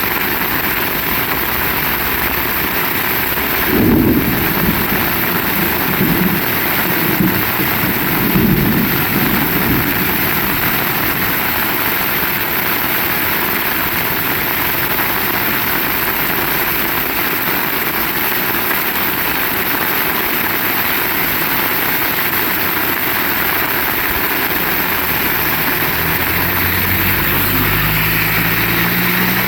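Steady heavy rain. Low rumbling swells between about 4 and 10 seconds in, and near the end a motor engine comes in, its pitch rising slightly.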